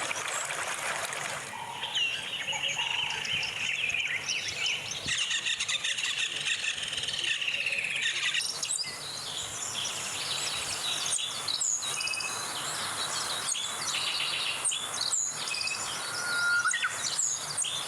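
Rainforest birds calling, a dense chorus of chirps and warbles that thins out about halfway into scattered single chirps and short whistles. A faint stream runs under the first second or so.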